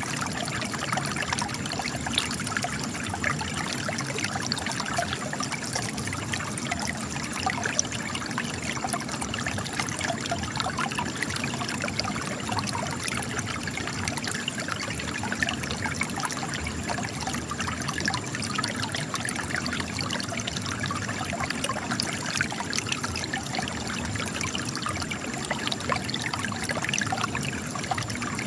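Spring water trickling and splashing out of cracks in rock, a steady, unbroken run of small gurgles and drips.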